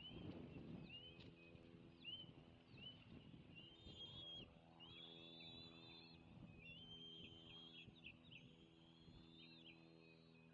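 Bald eagles calling: a series of high, thin chirps that run together into chattering strings, becoming more frequent after the first few seconds. A steady low electrical hum and some low rumbling noise sit underneath.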